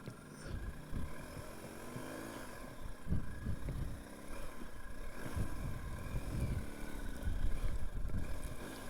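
BMW R 1250 GS Low's boxer twin engine running under way, its pitch rising and falling, with wind buffeting the microphone.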